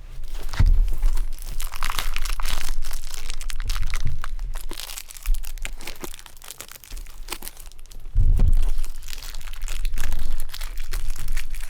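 Plastic shrink wrap on a large cardboard collection box being crinkled and torn at by hand, an irregular crackling with a few tearing sounds as it resists opening. There is a dull bump of the box being handled near the start and a louder one about two-thirds of the way through.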